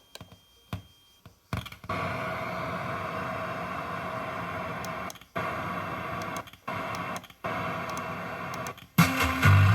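Akai SS023A-X10 rechargeable speaker putting out a loud, steady hissing static after a few faint clicks, cutting out briefly three times; music comes in near the end. The owner takes the noise for interference, a grounding or shielding fault in the speaker.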